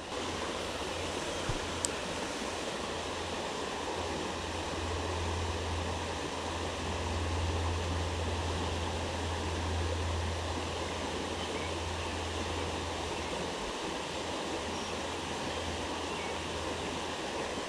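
Creek water flowing steadily, an even rushing sound with a low rumble underneath.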